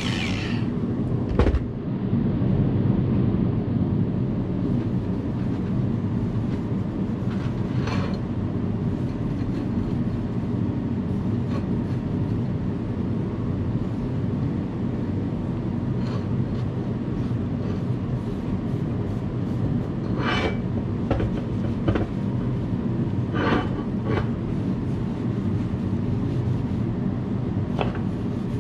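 An engine running steadily at a constant speed, with a few short knocks or clanks now and then.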